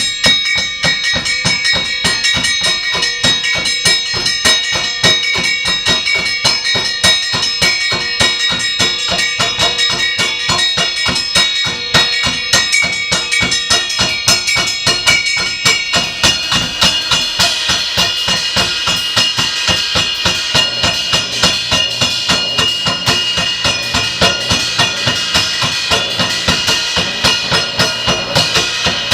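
Experimental percussion played in a fast, dense run of strikes, with several ringing tones held over the hits. About halfway through, the ringing pitches shift and a brighter, hissier wash builds up over the strikes.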